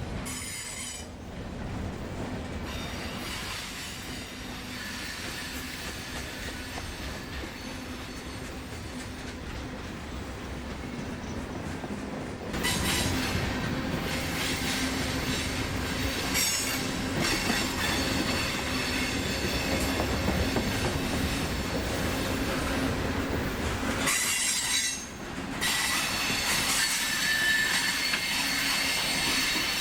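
Freight train passing, with its diesel locomotive engine running steadily and steel wheels squealing against the rail. The squeal grows louder about halfway through and breaks off briefly near the end.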